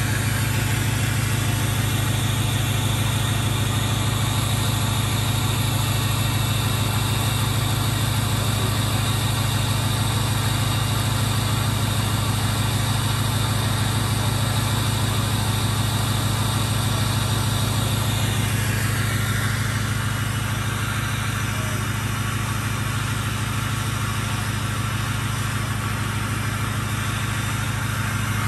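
Diesel pickup engine idling steadily after a cold start. About two-thirds of the way through, a higher whine slides down in pitch and the engine sound eases slightly.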